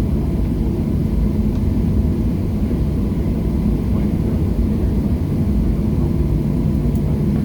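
Steady low rumble inside the cabin of a Boeing 737-700, its CFM56-7B engines running at idle before takeoff, with a faint steady whine above the rumble.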